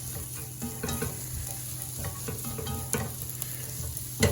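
Onions frying in a pan with a steady sizzle, stirred around with a few light knocks against the pan.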